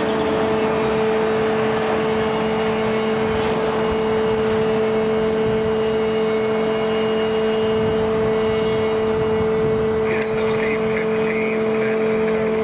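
Jet aircraft engines running with a steady whine over a continuous rushing noise.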